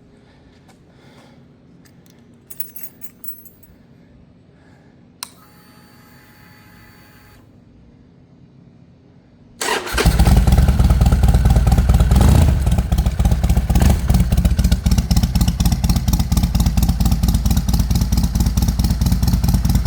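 Cold start of a 2013 Harley-Davidson Seventy-Two's 1200 cc air-cooled V-twin: a click and a steady whine of about two seconds as the fuel pump primes, then near the middle the starter cranks briefly and the engine catches. It runs loudly, with a brief rise about two seconds after starting, then settles into an even, pulsing idle.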